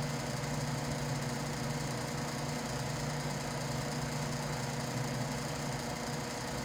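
Noisy electric fan running with a steady, unchanging hum.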